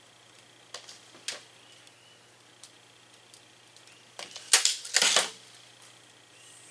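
Sheet metal being cut out and handled: a few sharp clicks about a second in, then a louder burst of crackling, rattling clicks between about four and five seconds in.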